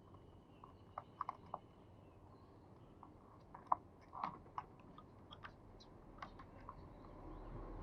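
Faint, scattered small clicks and ticks, about fifteen over several seconds at irregular spacing, between the dove's coos.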